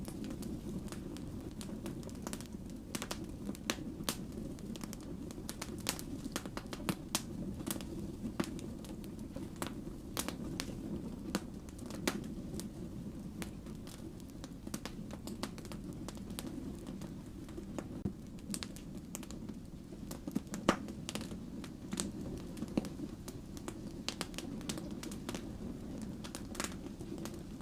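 Firewood burning, with frequent sharp, irregular crackles and pops over a steady low rumble of the flames.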